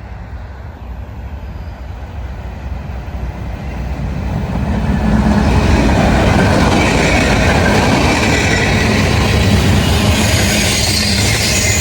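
Freight train with a diesel locomotive approaching, growing louder over the first five seconds, then passing close with a steady heavy rumble. From about halfway in, a higher hiss and squeal of wheels on the rails joins it.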